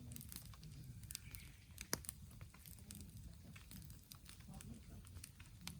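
Wood fire crackling faintly, with scattered small pops and one sharper pop about two seconds in.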